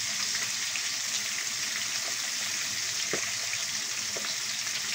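Fish frying in hot oil in a wok, a steady sizzle with a couple of small pops about three and four seconds in.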